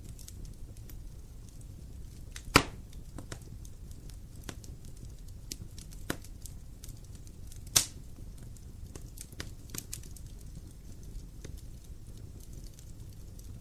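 Wood fire burning with a low steady rumble and constant small crackles, and two loud sharp pops from the burning logs, about two and a half seconds in and near eight seconds, with a smaller one in between.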